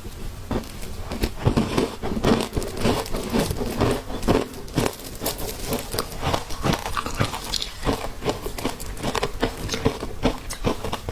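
Close-up chewing and crunching of matcha shaved ice: a dense, irregular run of crisp crunches as the ice is bitten and broken up between the teeth.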